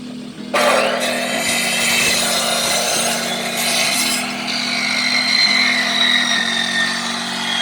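Power saw cutting through a log into firewood lengths. It starts suddenly about half a second in, with a whining pitch that drops and recovers as the blade works through the wood.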